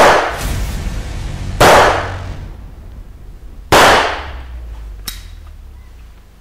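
Three loud, sudden bangs about two seconds apart, each dying away over most of a second, over a low steady hum. A fainter click follows near the end.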